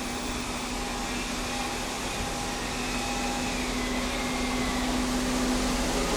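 Diesel train's engine running with a steady hum and a whine, growing slowly louder.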